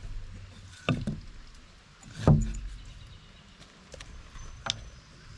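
Three separate knocks and thumps on wooden framing lumber, the loudest about two seconds in, from work on timber supports.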